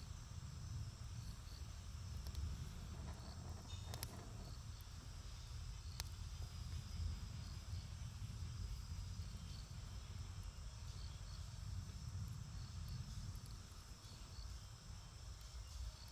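Campfire burning with a few sharp crackles, one about four seconds in and another near six seconds, over a steady low rumble. A steady high insect trill runs behind it.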